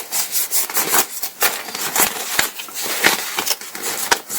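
Paraglider ripstop nylon fabric rustling and crinkling as it is handled and stretched, with many irregular sharp crackles.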